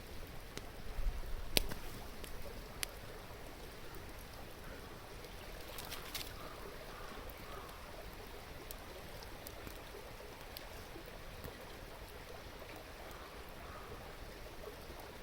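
River murmuring steadily, with the occasional sharp pop and crackle of a burning wood fire.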